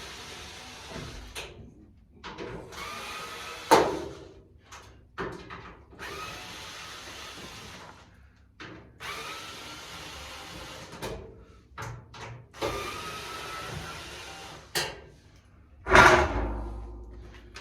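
Cordless drill-driver run in about five short bursts, each rising in pitch as it spins up, with sharp knocks between them and one loud thump near the end.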